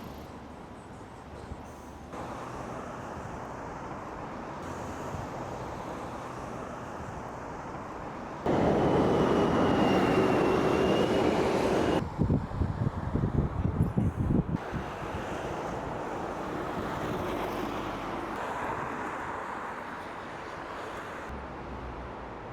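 City street ambience with passing vehicle and traffic noise, in several short clips that cut abruptly from one to the next. A much louder stretch of noise comes in suddenly a little over a third of the way in, then breaks into uneven low pulses before settling back to a steadier hum.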